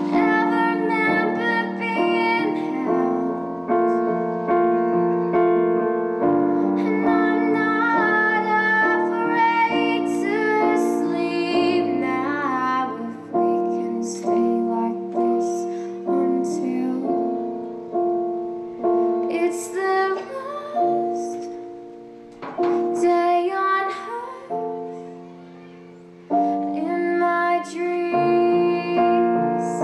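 Music: a female voice singing slowly over piano, with a quiet passage near the end before the piano comes back in.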